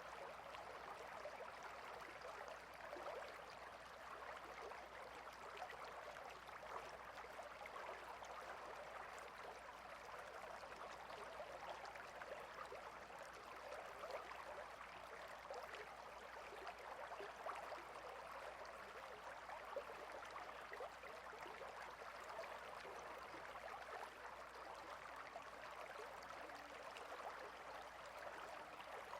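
A stream flowing steadily, a faint even rush of running water.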